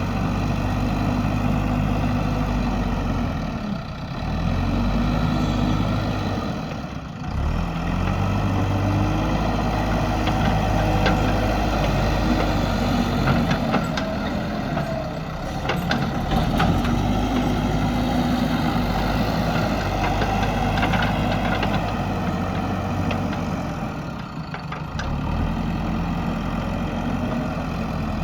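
JCB backhoe loader's diesel engine running under working load, its revs rising and falling repeatedly. Scattered clanks and knocks come in the middle.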